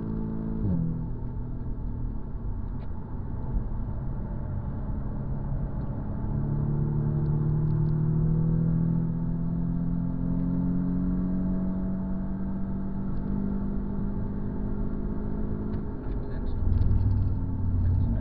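Audi S3's turbocharged four-cylinder engine pulling hard on a race track. The engine note drops sharply about a second in, as at a gear change, then rises slowly as the car accelerates. Near the end the note falls away and a louder low rumble takes over.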